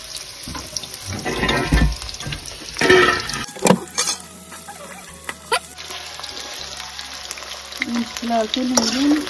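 Chunks of quince frying in hot oil in a metal kadai, a steady sizzle. A slotted metal spoon stirs them, scraping and clattering against the pan in a few short bursts, the loudest about a second and a half and three seconds in.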